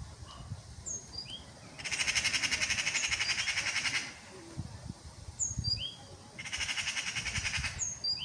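Eurasian magpie giving its harsh rattling chatter, the alarm and mobbing call it makes at a predator, in two bursts of about two seconds and a second and a half. Faint, short high chirps from a small bird repeat between them.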